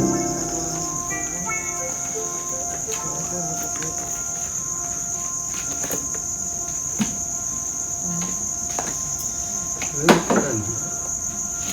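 Crickets chirring, a steady high-pitched trill that doesn't let up, with a few faint clicks and a short louder sound about ten seconds in.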